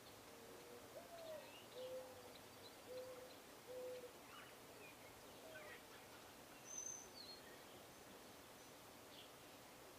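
A dove cooing faintly: a slurred note that rises and falls, then three lower, level coos, heard in the first four seconds. Small birds chirp faintly and sporadically throughout, with one sharper high note about seven seconds in.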